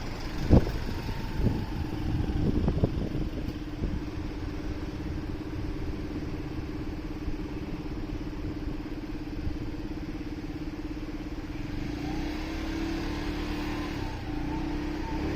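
Motorcycle engine holding a steady note, then rising in pitch and getting louder over the last few seconds as it accelerates. A few sharp knocks sound in the first three seconds.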